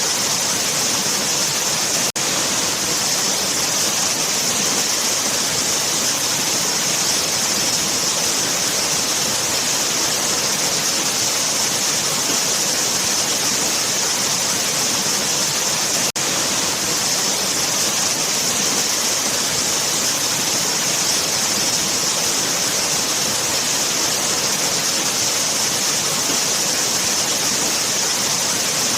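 Waterfall: a steady, even rushing of falling water, heavy in hiss. It dips for an instant twice.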